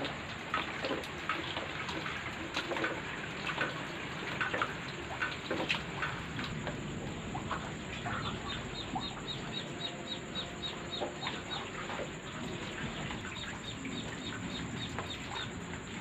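Steady rain with scattered drips and splashes of water, including water sloshing in a bowl as rice is washed by hand in the first few seconds. Around the middle, a quick run of high chirps, about three a second, lasts a few seconds.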